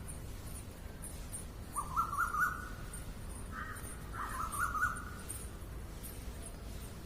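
Birds calling in the morning: a run of short notes stepping upward in pitch about two seconds in, a brief call, then another stepped run about four seconds in. Faint, rapid high-pitched chirping goes on throughout.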